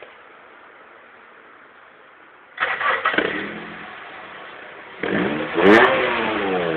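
Honda Stream engine through a large aftermarket sports muffler, starting up suddenly about two and a half seconds in, then revved near the end, its pitch falling as the revs drop back.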